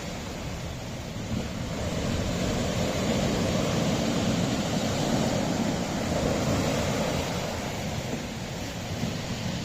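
Sea waves surging against a rocky shore, a steady wash that swells to a peak mid-way and eases off again near the end.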